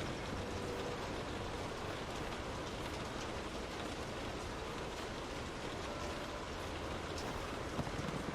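Steady rain falling, an even hiss with scattered drop ticks; a few sharper, louder drop hits come near the end.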